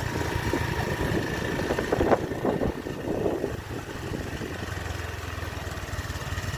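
A vehicle's engine running steadily as it drives along a road, with a low rumble and a short knock about two seconds in.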